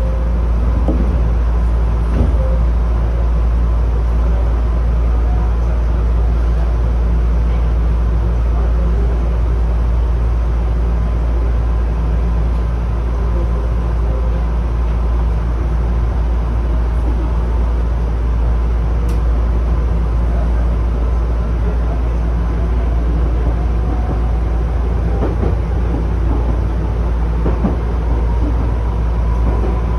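Chichibu Railway 7500 series electric train running along the line, heard from inside the rear cab. Steady rumble of wheels on rail over a strong low hum, with a few faint knocks and a thin whine that rises slightly near the end.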